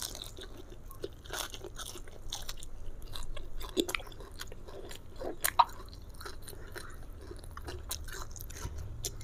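Close-up chewing of a mouthful of fried chicken: irregular wet clicks, smacks and small crunches.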